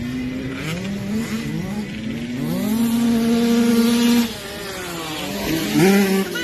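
Motocross bike engine accelerating up through the gears, the pitch climbing and dropping back at each shift, then held at high revs. About four seconds in the throttle is shut off, and the engine revs up again near the end.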